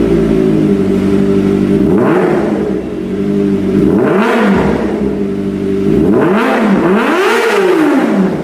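Kawasaki ZX-25R's 250 cc inline-four idling through an aftermarket exhaust and blipped four times, the pitch shooting up and falling back each time; the last rev goes highest and lasts longest.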